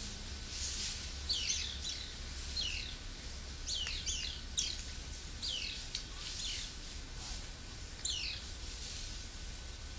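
Wild birds calling: high, quick whistled notes that slide downward, repeated irregularly about once a second.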